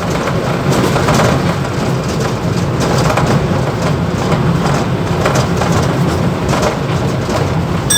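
Mumbai suburban EMU local train running between stations, heard from the motorman's cab: a steady, loud rumble of wheels and traction with constant rattling and clicking in the cab.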